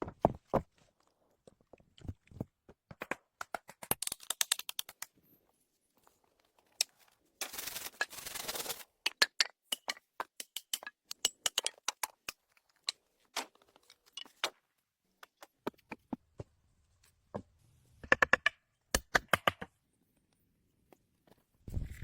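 A run of irregular sharp clicks and taps, broken by a few longer scraping or tearing stretches, the longest about eight seconds in.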